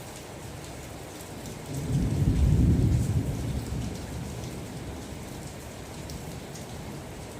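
Steady rain with scattered drop taps. A low rumble of thunder swells about two seconds in, peaks, and fades away by about four seconds.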